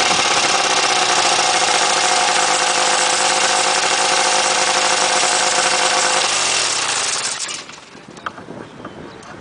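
Weedhopper ultralight's small two-stroke engine running steadily, then shut off about six seconds in, its pitch sliding down as it winds to a stop. A faint rustle of wind and a few light knocks follow.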